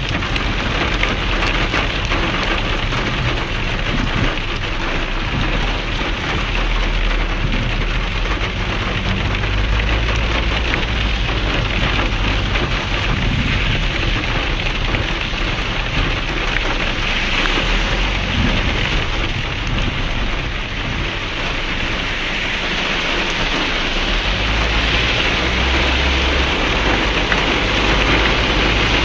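Heavy rain falling steadily and hard, with a low rumble underneath.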